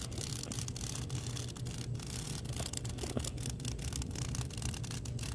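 Cicada giving its distress buzz, harsh and uneven, as it struggles while an orb weaver spider wraps it in silk.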